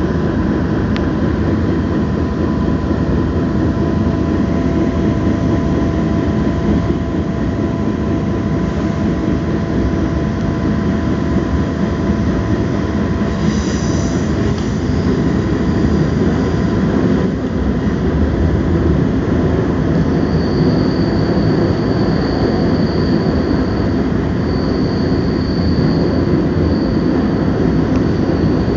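Passenger train running along the track, heard from inside the carriage: a steady rumble of wheels on rail. A brief high squeal comes about halfway, and from about two-thirds in a high-pitched wheel squeal comes and goes.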